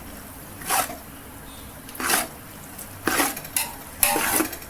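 A metal spoon or ladle scraping and knocking against a large cooking pot in about five short strokes, roughly a second apart, while stirring the fried onion and masala base.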